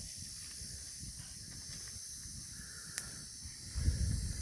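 Campfire burning with a steady hiss and faint low crackling, one sharp pop about three seconds in, and a low rumble near the end.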